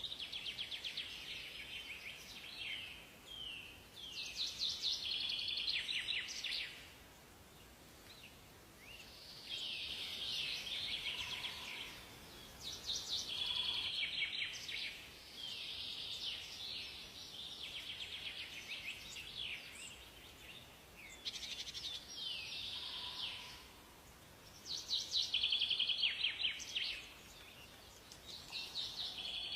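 Songbirds singing: phrases of fast, high trilling notes, each two to three seconds long, repeating every few seconds, with a brief lower note now and then.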